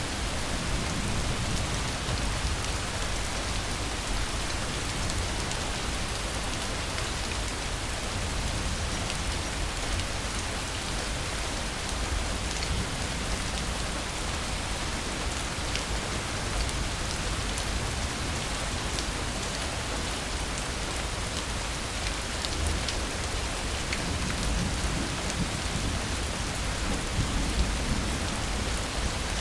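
Steady rain falling, with a low rumble of thunder growing near the end.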